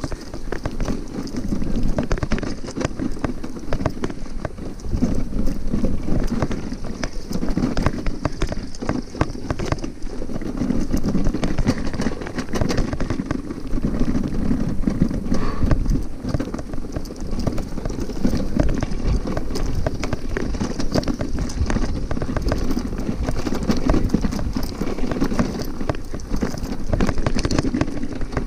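Bicycle riding over a rough trail: dense, irregular rattling and knocking of the bike and its load over bumps, with a rumble of tyres on the ground.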